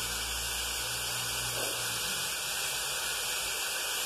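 Vegetables and soaked moong dal frying in ghee in a pressure-cooker pot, a steady, even sizzling hiss. A faint low hum underneath fades out about two seconds in.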